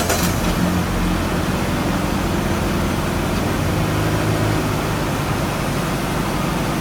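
Steady low mechanical hum under a constant hiss, with no change through the stretch.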